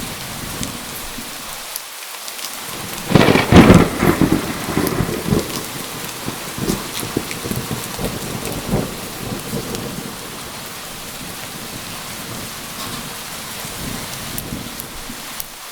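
Steady heavy rain with a loud thunderclap about three seconds in, rumbling away over the next several seconds before the rain carries on alone.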